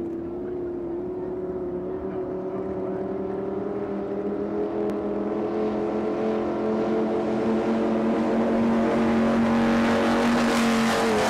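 Offshore race boat engines running hard, a steady droning note that rises slowly in pitch and grows louder as the boat approaches. A hiss builds up under it near the end.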